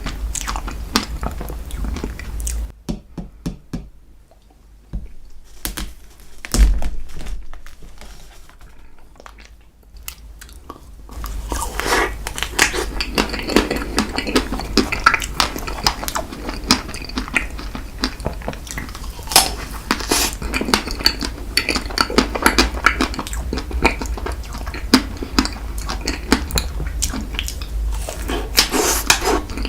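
Spoon clinking and scraping against a dish of ice cream cake, with chewing. The sound is quieter for several seconds near the start, broken by one sharp knock, then the busy clinking and scraping resumes.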